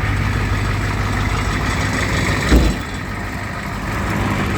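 Truck engine idling steadily just after a cold start, with one short, loud thump about two and a half seconds in.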